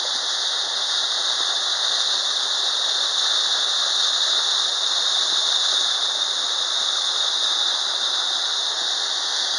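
A 30 m tiered waterfall rushing: a steady, dense hiss of falling water.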